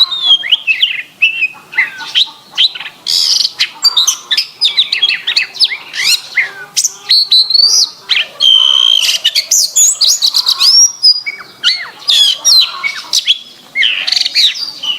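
Domestic canary singing a fast, unbroken song of rapid chirps, whistled sweeps, trills and a few held notes.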